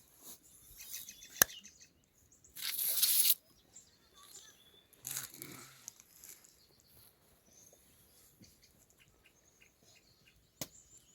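Two short bursts of noise, the first and louder one about two and a half seconds in, with a sharp click before it and another near the end; faint bird chirps in the background.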